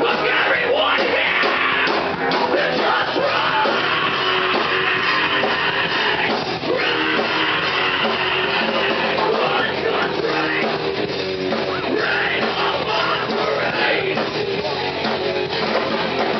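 A rock band playing live: electric guitar with sung and yelled vocals over a dense, loud full-band sound.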